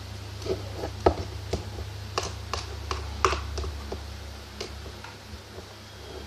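A spoon stirring sticky slime in a cup: irregular small clicks and wet pops, most of them in the first half. A steady low hum runs underneath.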